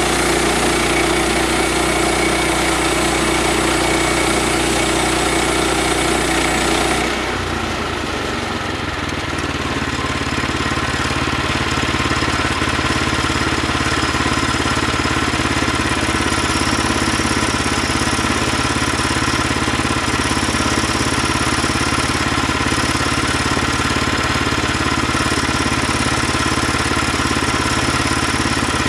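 An engine running steadily; its note shifts about seven seconds in, then holds steady again.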